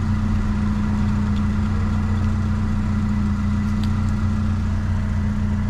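Vehicle engine idling steadily: a constant low hum with a steady tone.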